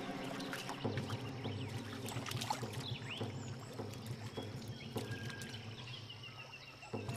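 Water splashing and churning as two male platypuses fight in the river, with faint high chirps in the background.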